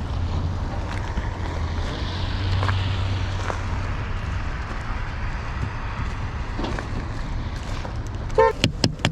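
City street traffic with wind buffeting the microphone. A vehicle rumbles past in the first few seconds. Near the end comes a brief tone and a few sharp knocks.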